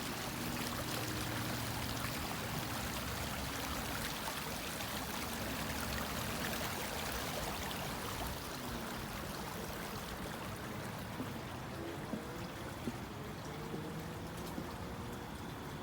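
Creek water flowing steadily, a continuous rushing and trickling that grows fainter after about eight seconds.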